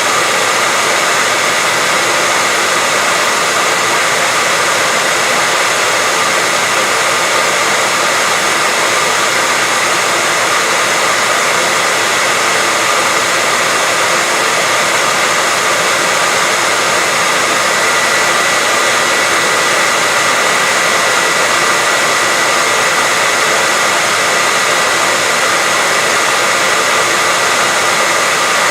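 Steady white noise: an even, unchanging hiss with a faint high tone running through it.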